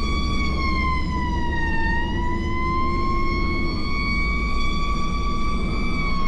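Fire engine siren wailing in a slow, smooth rise and fall: the pitch sinks about two seconds in, then climbs back and holds. A steady low engine and road rumble runs underneath as the engine responds to a medical call.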